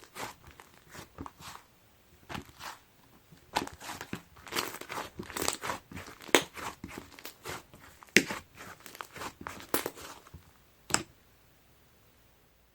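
Clay-mixed slime being pressed, stretched and squished by hand, making irregular sticky crackles and pops. The crackling stops about ten seconds in, followed by one last sharp pop.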